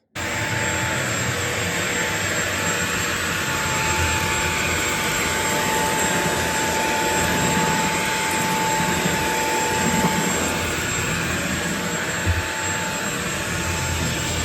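Vacuum cleaner running steadily: a constant rushing motor noise with a high whine that fades out about ten seconds in, and a brief bump near the end.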